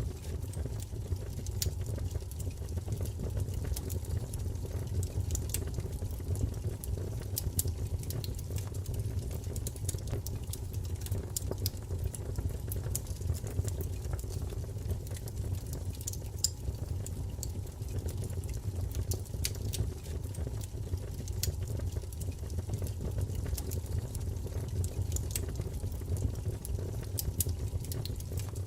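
Wood fire burning with a steady low rumble and frequent scattered crackles and pops.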